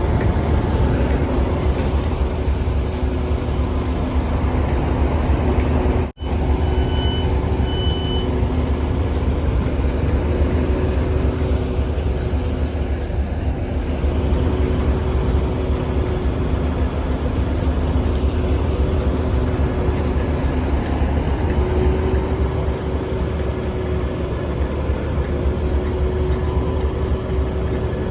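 A ScotRail diesel train's engine idling at the platform, a steady low rumble with a constant hum. Two short high beeps sound about seven and eight seconds in.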